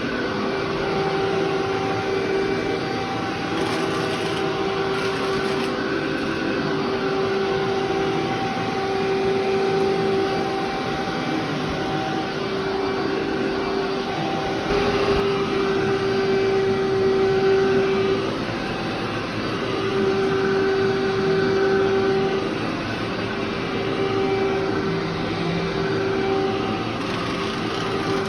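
Vacuum cleaner running over a heavily soiled carpet, a steady motor hum whose level swells and dips every couple of seconds as it is pushed back and forth.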